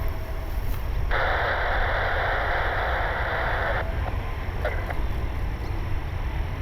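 A burst of hissing static from an air-band radio scanner, lasting about two and a half seconds and starting and cutting off sharply, over a steady low rumble of wind and distant aircraft.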